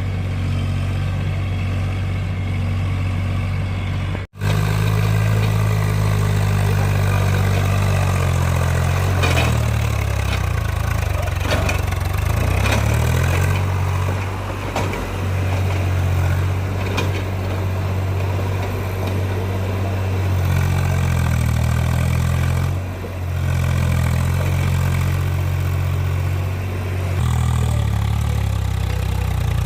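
Tractor diesel engine running steadily, its pitch shifting up and down a few times. The sound drops out briefly about four seconds in.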